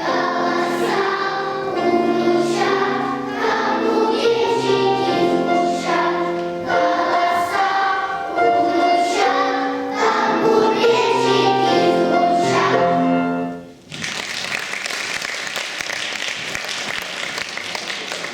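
Children's choir singing with musical accompaniment. The song ends about fourteen seconds in and is followed by applause.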